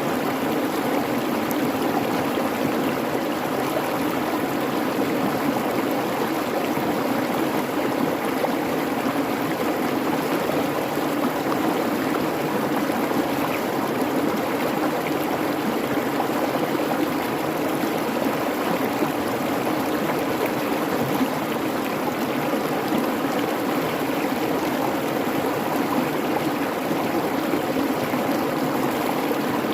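Creek babbling steadily over rocks: an even rush of running water with no breaks.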